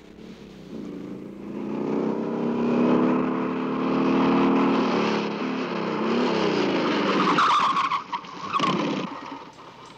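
Cartoon sound effect of car engines running, growing louder over the first few seconds and wavering in pitch, with tyres squealing near the end.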